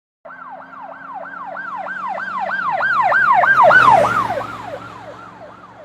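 An emergency vehicle's siren in fast yelp mode, about three sweeps a second, passing by: it grows louder, peaks about four seconds in, then drops in pitch and fades as the vehicle moves away. A vehicle engine hum runs underneath.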